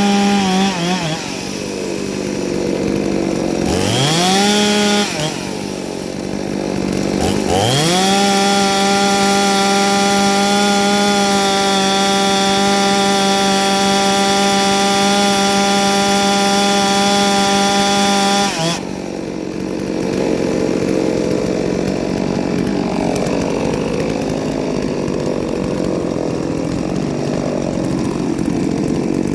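Ported two-stroke chainsaw at high revs. It drops off about a second in, revs back up twice, holds a steady high pitch for about ten seconds, then falls to a lower, rougher running sound for the rest.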